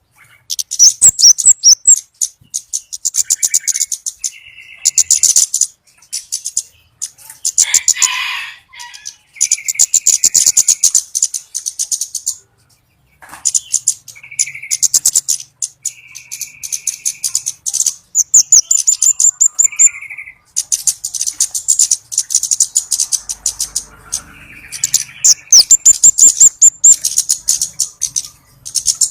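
Orange-bellied flowerpecker (cabai bunga-api) calls played as a bird-trapping lure: loud bursts of rapid, very high ticking chips, each a second or two long with short pauses between them. Brief lower notes come in between the bursts.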